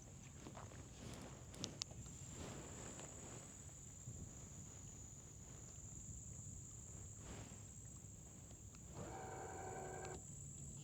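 Faint outdoor marsh ambience: a steady high-pitched drone and a low rumble, with a couple of small clicks about two seconds in and a brief pitched sound near the end.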